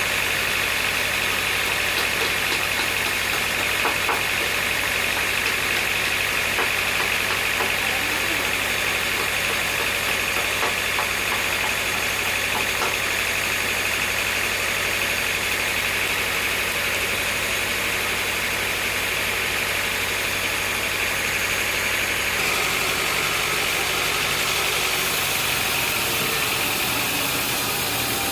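Sawmill machinery running steadily: a continuous mechanical noise over a low hum. The sound shifts about three-quarters of the way through, and the low hum drops away near the end.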